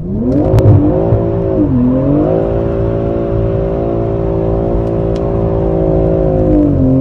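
BMW M340i G20's 3.0-litre turbocharged inline-six engine revving: the revs climb, dip briefly about two seconds in, then are held steady for several seconds before falling near the end.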